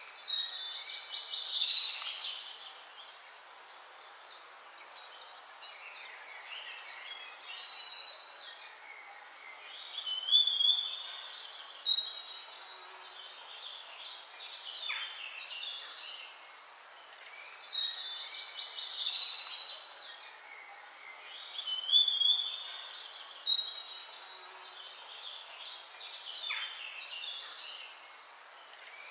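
Birdsong: loud bursts of high, quick chirping and warbling phrases every few seconds, with quieter chirps and a steady hiss between them.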